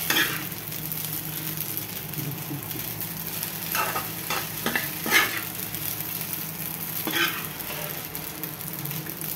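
Fusilli pasta with whole boiled eggs sizzling in a frying pan while a metal spoon stirs it, scraping the pan several times around four, five and seven seconds in.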